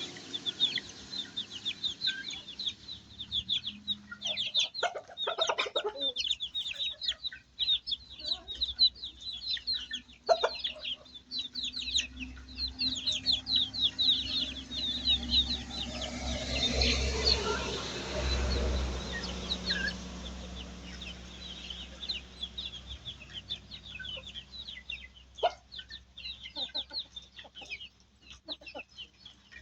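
Baby chicks peeping in a steady stream of rapid high chirps, with a hen clucking now and then.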